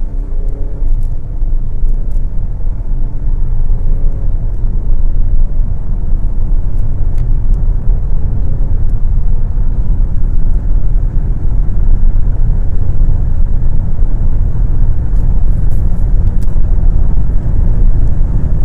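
Volvo XC60 driving under acceleration: a steady low rumble of engine and road noise, with a faint engine note audible in the first few seconds.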